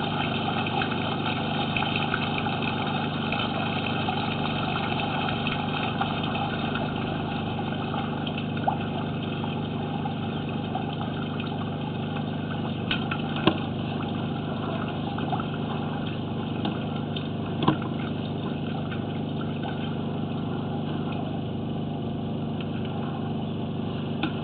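A machine running steadily with a low, even hum, with a few short sharp clicks scattered through.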